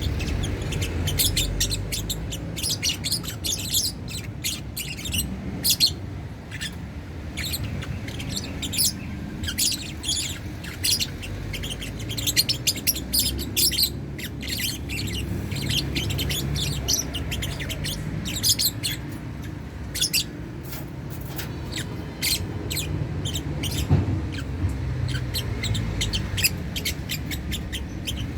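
A colony of lovebirds calling in a cage: many short, high chirps in quick, overlapping runs throughout, over a steady low hum.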